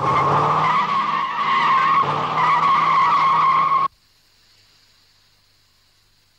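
Car tyres squealing in a long, loud skid, which cuts off suddenly about four seconds in.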